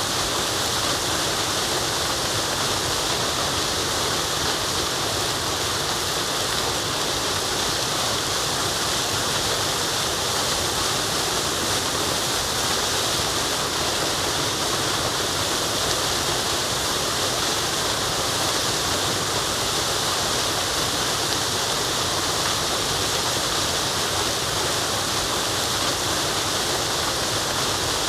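Forest waterfall rushing steadily: an even, unbroken wash of falling water, heaviest in its high hiss.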